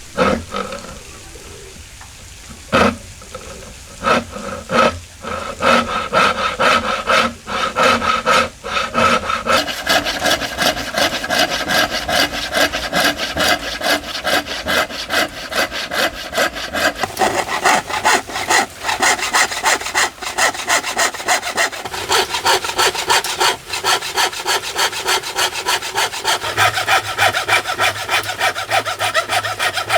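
Hand saw cutting wood. A few separate strokes come first, then from about a third of the way in a long run of quick, even back-and-forth strokes, with a ringing tone from the blade that shifts in pitch as the cut deepens.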